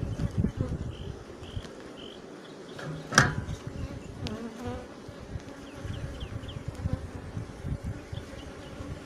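Honeybees buzzing around a hive, with one sharp knock about three seconds in.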